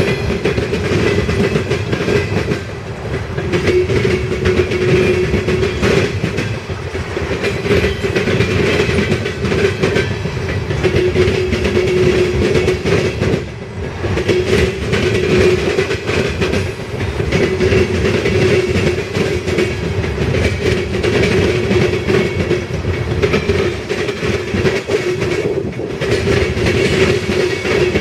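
Loaded coal train's hopper cars rolling past at steady speed: a continuous rumble of steel wheels on rail, with repeated clacks as the wheels cross rail joints and a steady drone running through it.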